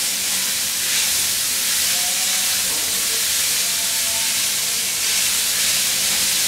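Chopped chicken and fresh vegetables (carrot, cabbage, tomato) frying in a pan, giving a steady sizzle.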